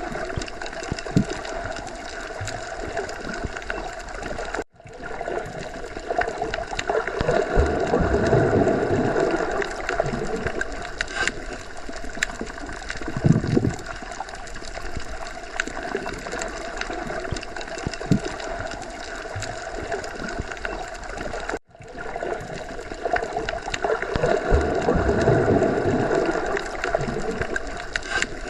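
Underwater sea ambience: a continuous, muffled churn of water with gurgling. It swells louder twice and cuts out for an instant about five seconds in and again about twenty-two seconds in.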